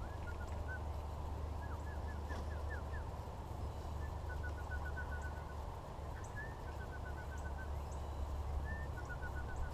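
A small bird calls in quick runs of short, high, chirping notes, five or six runs over a few seconds. A steady low rumble runs underneath.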